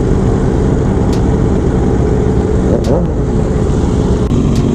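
Motorcycle engine running steadily while riding, with heavy wind noise. A brief rise and fall in engine pitch about three seconds in.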